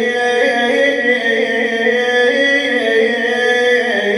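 A man sings an Iraqi elegy (lament for a lost brother) unaccompanied, holding one long note that wavers slowly in pitch and bends into the next with no pause.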